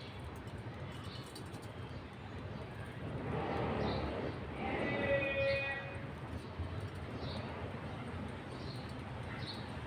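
Budgerigars chirping: short high chirps every second or so, with a longer call about five seconds in, over steady background noise.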